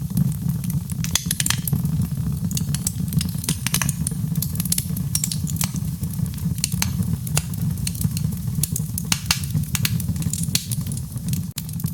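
Wood fire in a fireplace crackling, with many sharp pops and snaps, some in quick clusters, over a steady low rumble of the burning.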